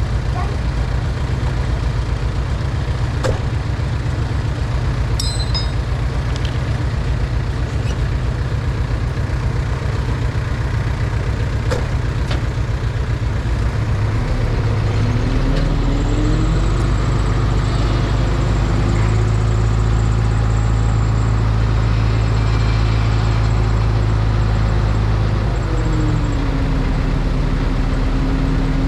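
A heavy diesel engine on construction machinery runs steadily. About halfway through it revs up, holds at the higher speed for about ten seconds, then drops back. A few short knocks come in the first half.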